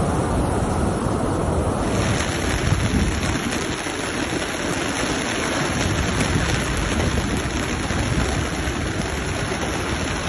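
Steady rush of a flash-flood torrent, a dense noise of fast-running water, with the tone shifting about two seconds in.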